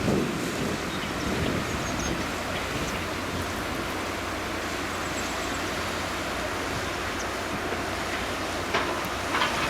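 Steady outdoor rushing noise with wind buffeting the microphone, and a few short knocks near the end.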